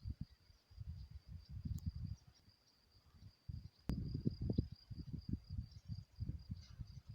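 An insect trilling steadily on one high note, over irregular low gusts of wind on the microphone, with a single sharp click about four seconds in.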